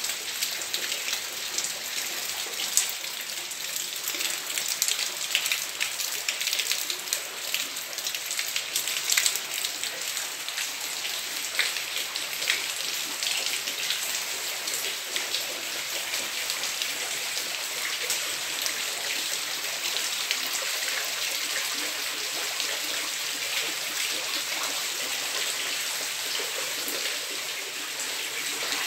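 Steady rain falling on a concrete yard and garden plants: a dense, even hiss full of single close drop hits.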